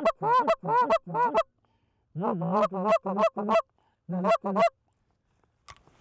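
Canada goose call blown by a hunter in a series of honks and clucks, in three quick runs of rising-and-falling notes with a short pause between runs, calling to a single incoming goose. The calling stops about a second before the end.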